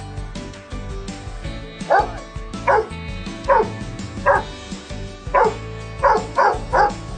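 Dog barking: about eight short barks, each falling in pitch, starting about two seconds in, over background music.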